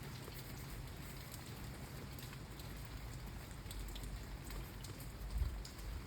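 Steady rain, with scattered drips ticking on a surface and a brief low thud about five seconds in.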